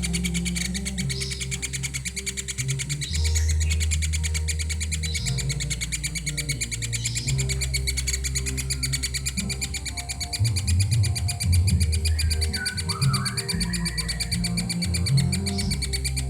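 Woodpecker chick calling in a fast, continuous high chatter, with a low steady drone of music underneath.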